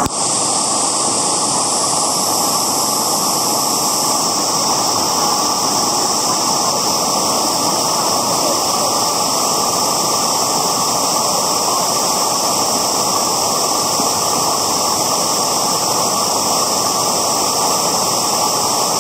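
A steady, loud rushing noise with no breaks or distinct events, beginning and ending abruptly.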